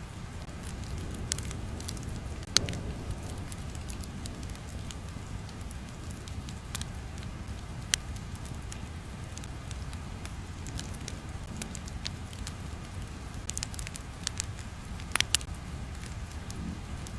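Crackling fire ambience: a steady low rumble with scattered sharp crackles and pops, a few clustered near the end.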